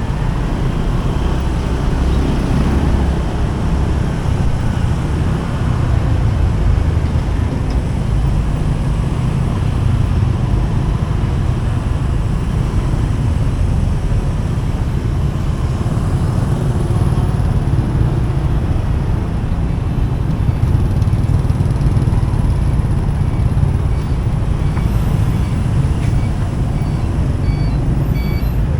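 Steady road noise from riding a motorcycle in traffic: a continuous low rumble of engine, tyres and passing vehicles. Near the end a reversing beeper starts pulsing faintly.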